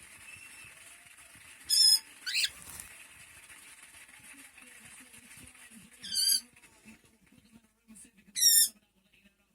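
Cockatiel calling: four short, loud calls, three of them wavering squawks and one a quick upward chirp, spaced a few seconds apart.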